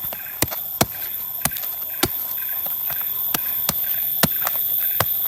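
A knife striking and cutting into a durian's thick spiky husk off its natural seams: about a dozen sharp, irregular knocks, a few tenths of a second to half a second apart.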